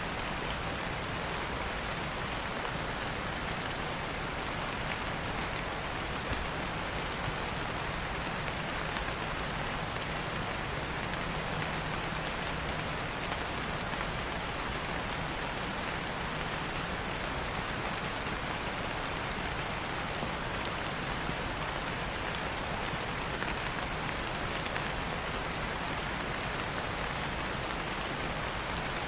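Steady rain falling, an even hiss with a few faint louder drops.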